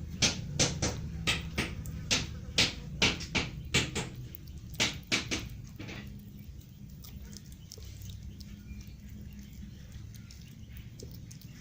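Kitten chewing on a dead mouse, sharp crunching bites about three a second that stop after about five seconds.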